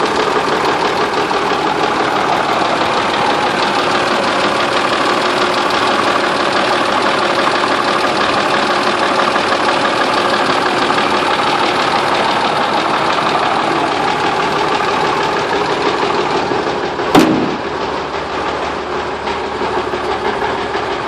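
1957 REO F-20 truck's Gold Comet inline-six engine idling steadily, running again for the first time in about twenty years after being freed from seizure. A single sharp knock comes late on, after which the engine sounds a little quieter.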